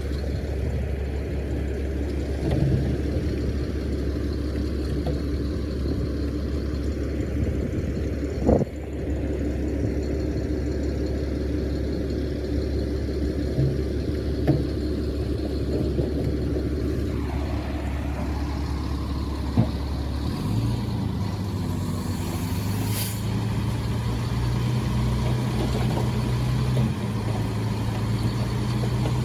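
Heavy diesel earthmoving machinery running steadily, with a sharp knock about eight seconds in. About twenty seconds in the engine note changes to a steadier, more tonal hum, and a brief hiss follows a few seconds later.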